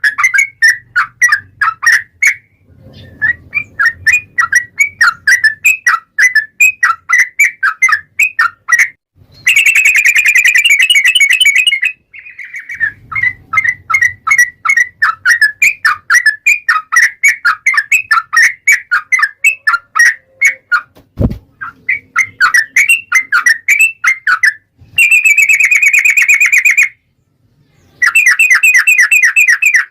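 Yellow-vented bulbul singing a long, rapid run of chattering chirps, with two denser, harsher spells of fast notes; the song stops abruptly twice. A single low knock sounds about two-thirds of the way through.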